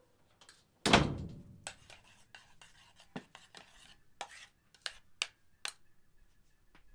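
A loud thump about a second in, followed by a string of light knocks and clicks, as of objects being handled and set down.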